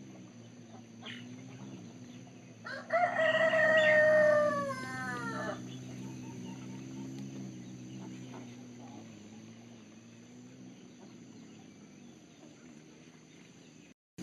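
A rooster crowing once, a single call of about three seconds starting a few seconds in, over a steady low hum.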